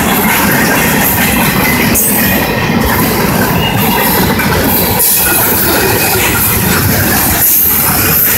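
Freight train's boxcars and tank cars rolling past at close range: a loud, steady rumble and clatter of steel wheels on the rails.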